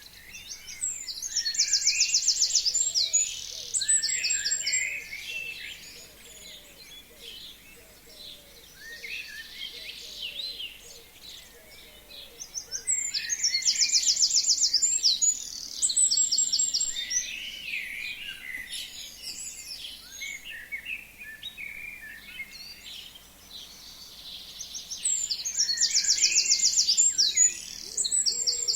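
A forest songbird sings the same loud, high trilled song three times, about twelve seconds apart. Each song is a fast run of even notes lasting about three seconds and ends in a few different notes, with softer chirps from other birds in between.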